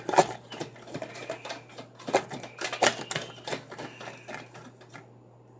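Irregular light clicks and taps, a few a second, from a mixing utensil and small containers being handled while the slime is mixed. They die away in the last half second, over a faint steady electrical hum.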